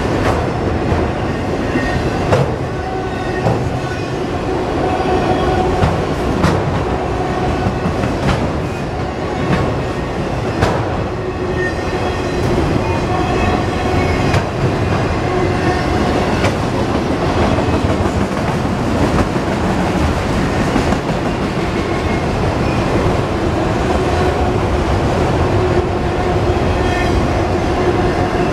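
Long freight train of autorack cars rolling steadily past, steel wheels clicking over rail joints over a constant rumble. Faint squealing tones from the wheels come and go.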